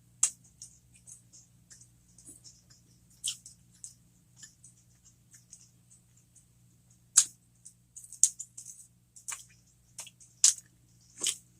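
Close-miked mouth sounds of someone chewing cheese-stuffed jalapeño poppers: irregular wet clicks and lip smacks, a few sharper ones in the second half, over a faint steady low hum.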